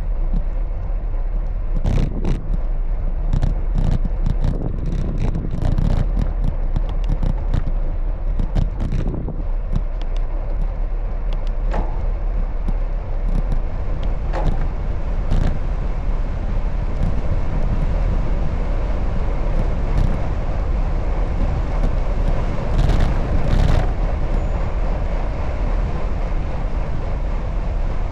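Bicycle ride in city traffic: a steady low rumble of road and wind noise, with frequent sharp clicks and rattles through the first third and a few more later on.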